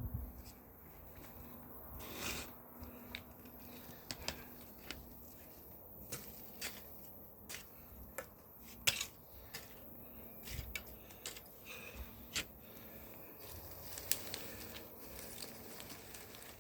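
Irregular sharp snaps and crackles of digging up potatoes, with roots and buried plastic being pulled and torn out of the soil.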